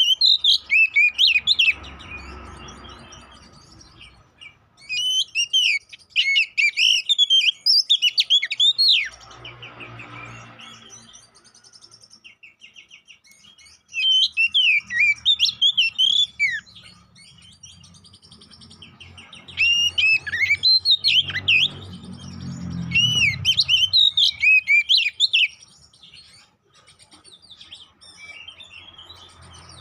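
Male oriental magpie-robin (kacer) singing its loud, combative fight song: rapid runs of varied high whistles and chirps in phrases a few seconds long, separated by short pauses. This is the song kacer keepers use as a lure to provoke other magpie-robins into singing.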